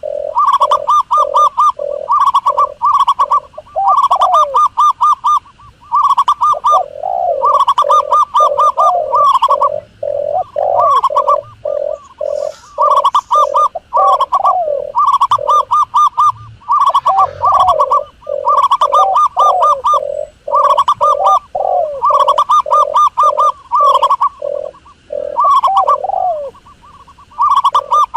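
Doves calling: fast runs of short repeated coos, several in a row, broken by brief pauses. A higher, quicker string of notes overlaps a lower one.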